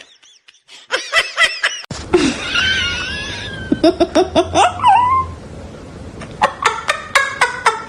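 People laughing in quick repeated bursts, in a run about two seconds in and again near the end.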